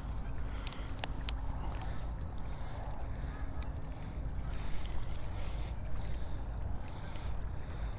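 Steady low rumble of wind and running river water, with a few sharp clicks about a second in.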